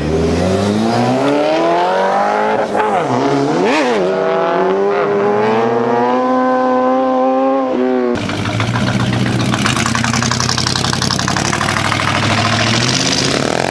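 Car engine revving up and held at high revs, its pitch climbing, dipping briefly and then steady. About eight seconds in the sound cuts abruptly to another engine running hard with a rough, rapid rasp.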